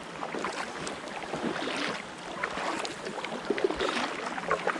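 Sea water splashing and lapping around an inflatable kayak in a light swell, a steady wash of small irregular splashes.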